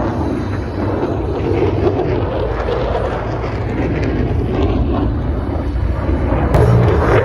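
Loud, steady jet engine noise from a USAF Thunderbirds F-16 demonstration.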